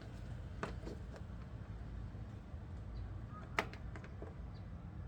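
A few light clicks and knocks from handling headlight assembly parts and wiring connectors while reconnecting them, the sharpest about three and a half seconds in, over a steady low hum.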